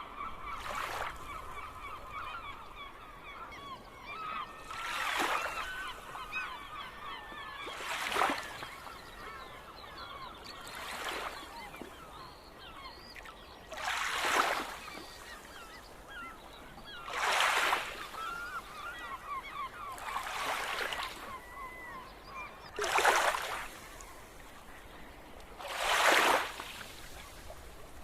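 A flock of gulls calling: many short, overlapping cries, thickest in the first few seconds and then scattered. A loud rushing swell of noise comes about every three seconds, nine times in all.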